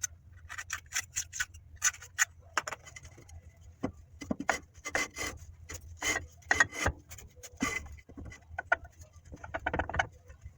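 Irregular scraping, rubbing and clicking of metal parts being worked by hand on a truck's rear drum brake assembly, over a steady low hum.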